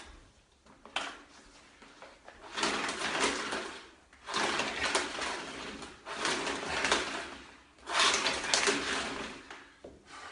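Handling noises from a vacuum cleaner that will not switch on: a click about a second in, then four bursts of scraping and rustling, each a second or two long. No motor runs.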